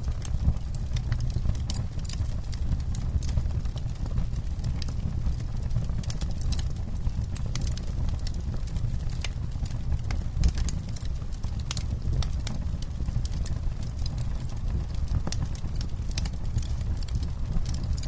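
Campfire burning, with many irregular sharp crackles and pops of burning wood over a steady low rumble.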